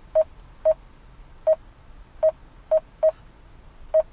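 Garmin dezl GPS touchscreen beeping at each key press as a name is typed in: seven short beeps, all at the same pitch, at uneven intervals.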